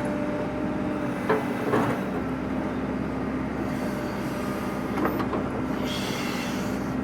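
A machine's engine running steadily, with a few sharp metal clanks.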